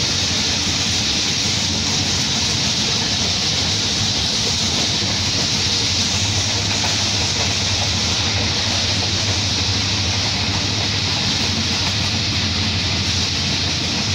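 Steady running noise of a passenger train at speed, heard from an open coach window: wheels on the rails under a low, even rumble, with a constant rush of air over the top.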